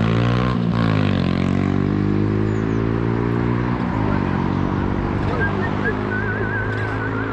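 KTM 1290 Super Duke R V-twin engine running at low revs as the bike rolls slowly, the pitch dipping and rising about a second in and shifting again a few seconds later. A high wavering whine comes in near the end.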